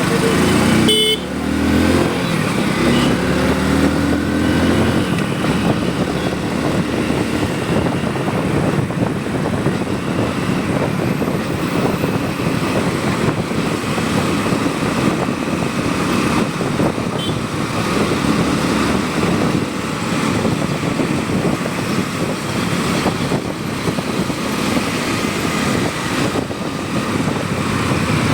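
Riding on a motorcycle through traffic: a steady rush of wind and road noise over the bike's engine, with a brief horn toot about a second in.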